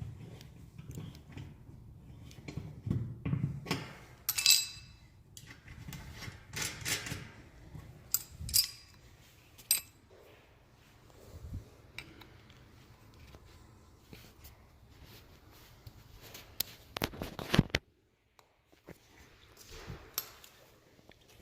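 Steam radiator banging: irregular sharp metallic knocks and clanks a second or a few seconds apart, the loudest about four seconds in and again near the end.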